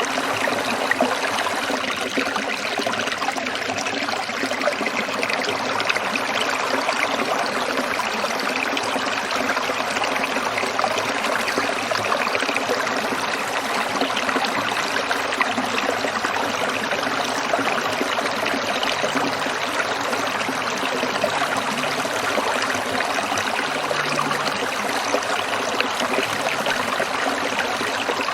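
Shallow stream trickling and burbling steadily over rocks.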